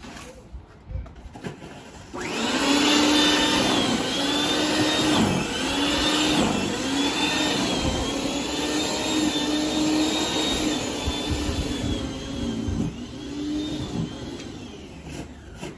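Snowblower running: it comes on about two seconds in with a steady whine, dips in pitch briefly several times, then fades away near the end.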